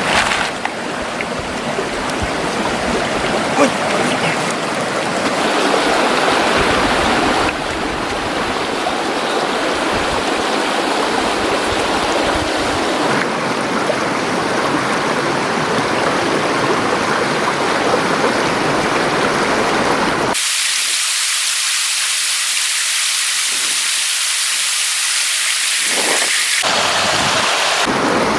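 Stream water rushing and splashing steadily. Its sound changes abruptly a few times, and for several seconds near the end only a thin hiss is left.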